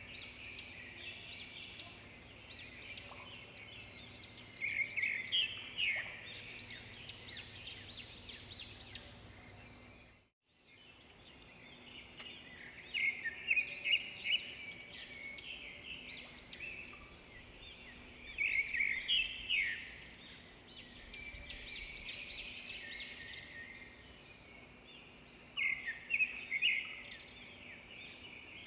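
Many small birds chirping and trilling together, in overlapping flurries of short high calls. The sound cuts out for about half a second roughly ten seconds in, then resumes.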